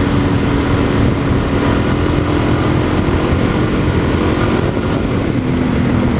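Dual-sport motorcycle engine running at a steady road speed, mixed with heavy wind noise on the rider's microphone.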